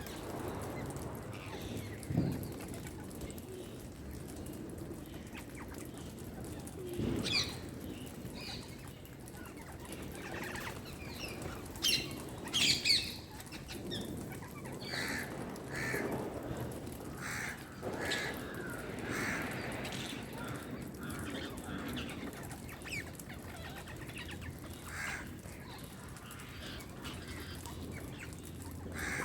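Indian green parrot chirping and squawking in short, scattered calls, loudest about halfway through. A couple of short low thumps sound near the start.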